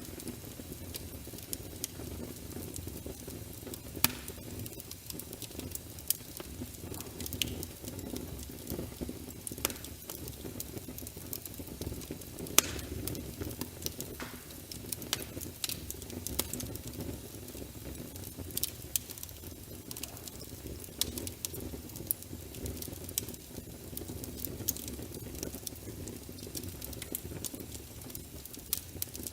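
Wood fire burning in a fireplace: a steady low rush with frequent irregular crackles and a few sharp, louder pops.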